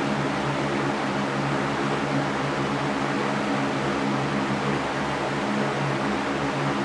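Electric fan running steadily: a constant rush of air over a low motor hum.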